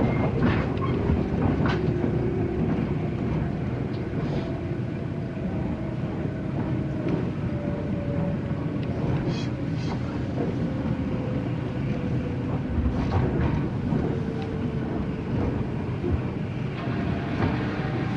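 A 485-series electric train running on the rails, heard from inside the carriage as it slows for a station stop. There is a steady rumble, a faint whine that falls slowly in pitch, and scattered clicks from the wheels.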